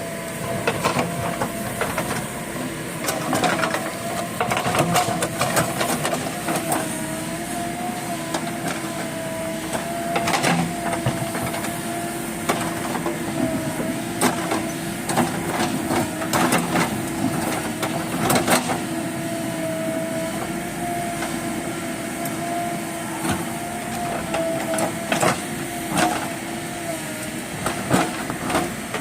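JCB backhoe loader running, with a steady whine that wavers slightly in pitch and irregular sharp knocks and clanks throughout.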